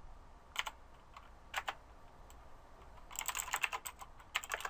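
Typing on a computer keyboard: a few separate keystrokes, then a quick run of typing from about three seconds in.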